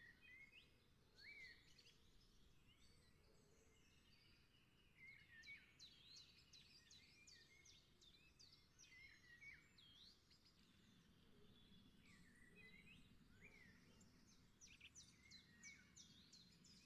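Faint birdsong: many short, high chirps and whistled notes from several birds, with runs of quick chirps about five seconds in and again near the end, over a faint low hum.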